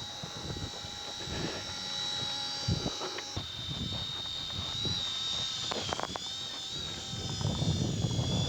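Small model-aircraft engine running with a steady high-pitched whine that wavers slightly in pitch about halfway through.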